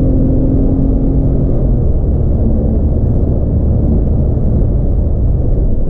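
Porsche 911 (997) Carrera's naturally aspirated flat-six heard from inside the cabin: a steady engine note fades out about a second and a half in, leaving a loud low rumble of engine and road noise.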